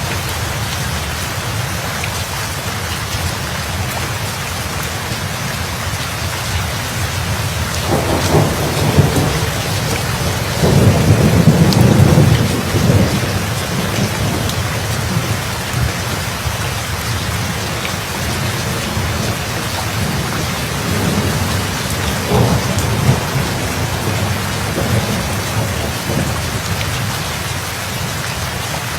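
Steady heavy rain with a roll of thunder that builds about eight seconds in and is loudest a few seconds later, then a shorter, weaker rumble near the middle of the second half.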